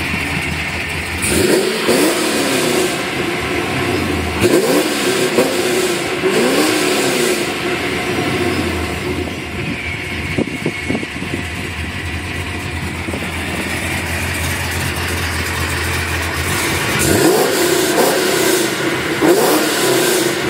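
Procharged LS2 408 stroker V8 with longtube headers, cat deletes and Magnaflow mufflers, idling and being revved in quick blips that rise and fall. There are bursts of revving about two, five to seven, and seventeen to nineteen seconds in, with steady idle between.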